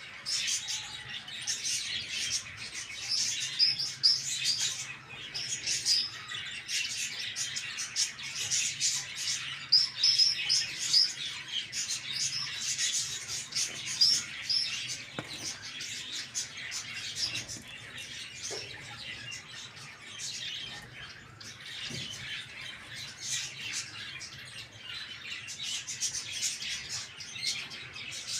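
Many small birds chirping and chattering at once, a continuous dense twittering of short, high calls with no crowing.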